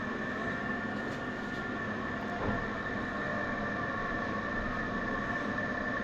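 Steady mechanical hum with several constant tones and an even level, broken by one brief knock about halfway through.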